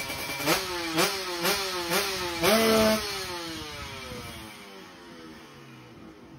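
Two-stroke Kawasaki Ninja drag engine in '59 open' build being blipped while it warms up: four sharp revs about half a second apart, then one held briefly high before the revs fall away and it runs down quieter.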